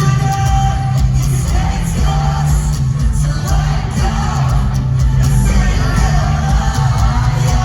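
Loud live band music through a large concert PA, heard from among the audience, with heavy bass, steady drum hits and singing over it.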